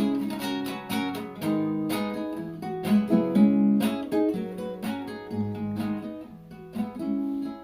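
Acoustic guitar playing a wordless passage of plucked notes and strummed chords.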